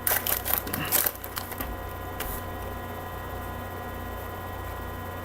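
A foil trading-card pack is torn open and its contents pulled out, giving a quick run of crackling and crinkling for about the first two seconds. After that only a steady low electrical hum remains.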